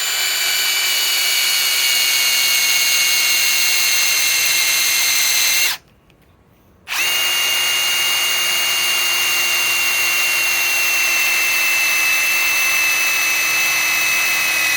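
Ryobi PSBIW25 compact cordless impact wrench driving a lag screw into wood. Its whine sags slowly in pitch under the load, stops for about a second after six seconds, then starts again and runs on.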